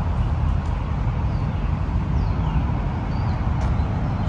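Steady rumble of highway traffic, with a few faint short high chirps over it.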